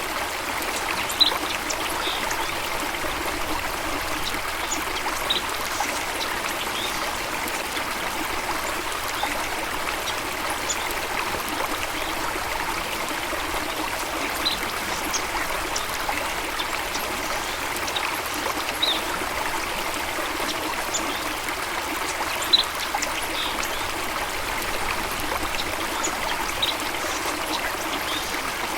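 Running water rushing steadily, with brief high bird chirps every few seconds.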